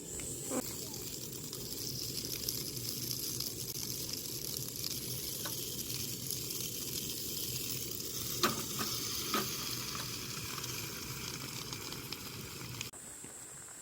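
Food sizzling and crackling as it fries in a hot pan, with a few sharper pops or taps; the sizzle cuts off abruptly near the end.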